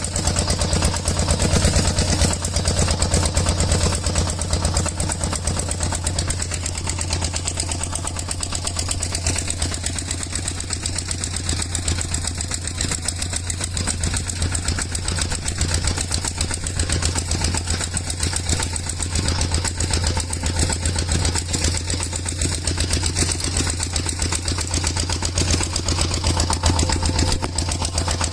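A small engine running steadily at an even idle-like pace, a continuous rapid chugging with no change in speed.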